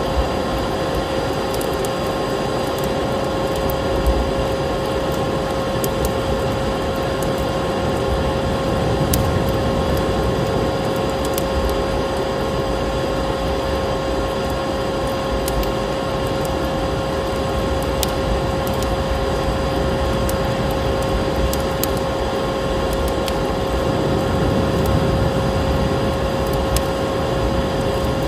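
Vacuum cleaner running steadily with a constant motor whine, layered over a steady rush of storm wind and scattered crackles and pops of a wood fire.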